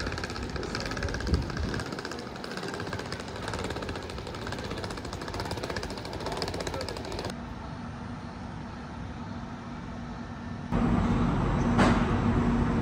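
Steady mechanical hum of a standing passenger train with its onboard equipment running, heard as platform ambience. It drops quieter about halfway through, then near the end grows louder with a steady low hum, and a single knock sounds.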